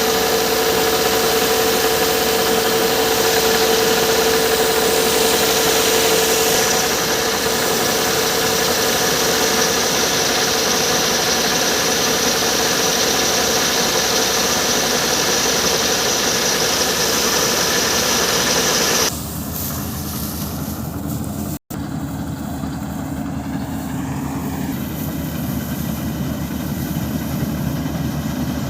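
Swaraj 4WD tractor's diesel engine running, with a steady high-pitched whine over it. About two-thirds of the way through the sound cuts abruptly to a quieter engine note, with a momentary dropout shortly after.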